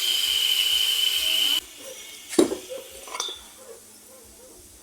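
Steam hissing steadily from a cooking pot with a high whine, cutting off abruptly about a second and a half in. Then a sharp knock and, a moment later, a lighter clink of a pot or lid.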